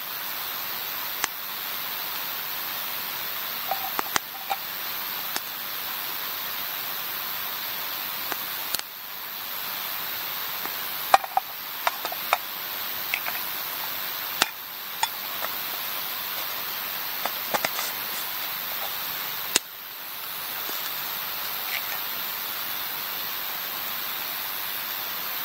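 Steady rushing outdoor noise with scattered sharp clicks and crackles, a dozen or so spread irregularly through it.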